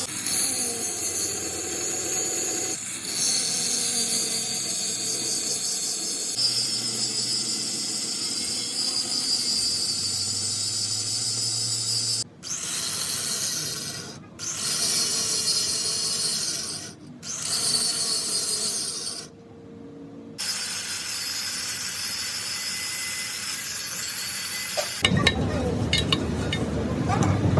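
Metalworking on a cracked truck flywheel: a steady high hiss of abrasive or cutting work, broken by a few short gaps. Near the end it gives way to louder clattering and clinking of metal.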